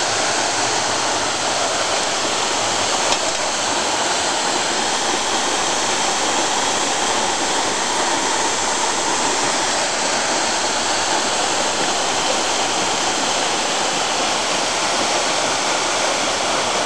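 A waterfall pouring onto rocks and a mountain stream, a loud, steady rush of water.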